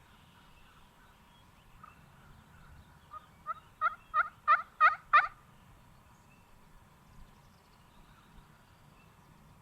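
A series of about seven turkey yelps, evenly spaced and each louder than the last, over a faint low wind rumble.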